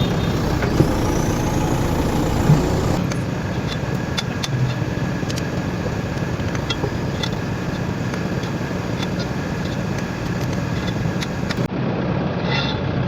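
An engine running steadily, with a few faint clicks over it; the sound changes abruptly twice, as at edit cuts.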